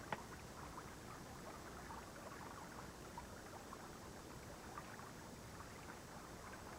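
One sharp knock right at the start, then faint water sounds: light splashing and trickling with scattered small ticks.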